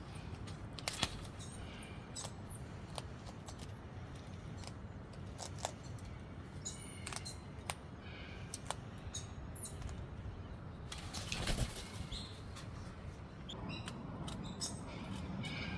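Scattered sharp clicks and crunches of a white cockatoo at the cookies, with a burst of its wings flapping about eleven seconds in.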